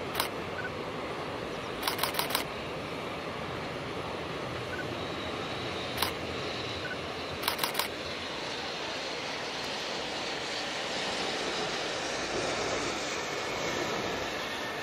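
Electric-hauled container freight train crossing a steel girder bridge: a steady rumble of wheels on the bridge, growing a little louder in the second half. Sharp clicks in quick groups of up to four cut through it as wheelsets pass over rail joints.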